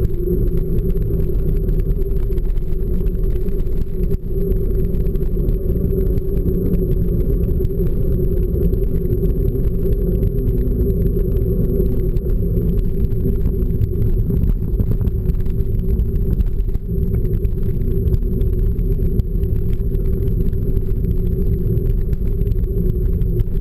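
Steady, loud low rumble of wind and vibration on a moving action camera's microphone, with a constant hum running underneath.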